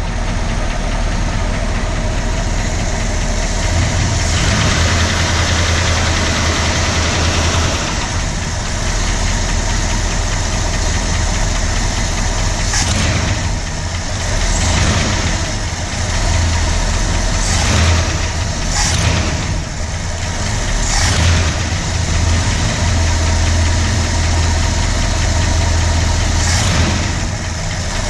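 1965 Ford Galaxie's 352 FE V8 idling steadily, with the ticking sound the owner is trying to track down.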